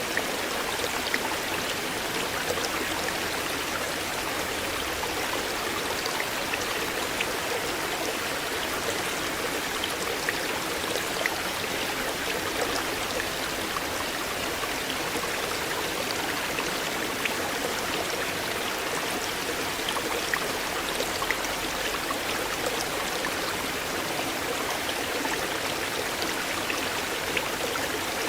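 Shallow river water flowing steadily over stones, a continuous rushing with many small splashes and trickles.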